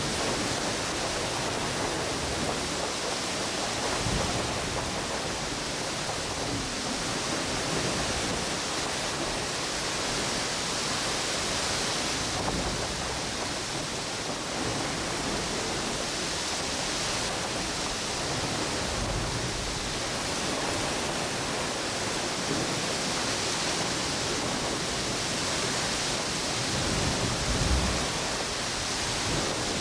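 Strong wind blowing through palm trees over ocean waves washing on a beach, making a steady rushing hiss, with a brief louder swell near the end.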